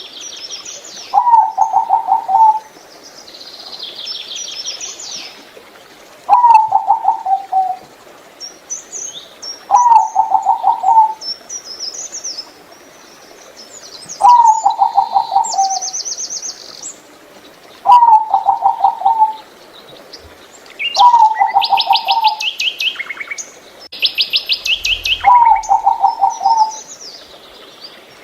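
Zebra dove (Geopelia striata) cooing: a rapid, stuttering rolled phrase of about a second, repeated seven times every three to four seconds. Higher chirps and trills from other small birds come between the phrases.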